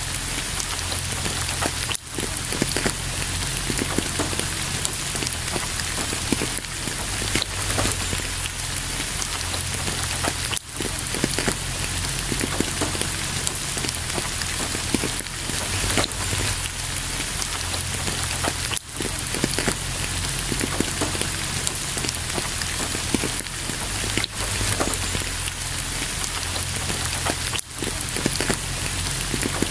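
Steady rain, with many separate drops ticking sharply on a hard surface. The loudness dips briefly four times, about every eight seconds.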